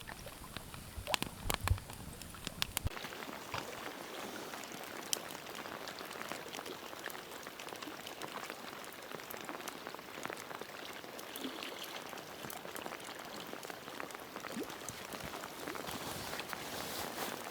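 Light rain falling: a steady soft hiss dotted with the ticks of single drops. In the first three seconds a few sharp clicks and low thumps sound over it, then stop.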